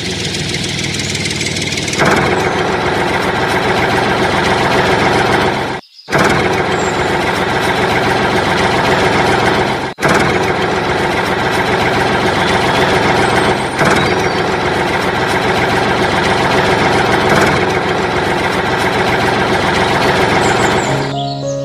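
Engine running steadily, cutting out abruptly for a moment twice, about six and ten seconds in.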